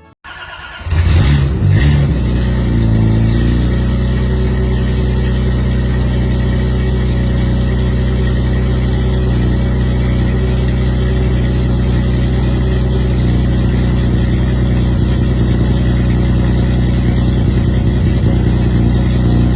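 1960 NSU Prinz 30's small air-cooled two-cylinder engine starting about a second in, blipped briefly, then settling into a steady idle.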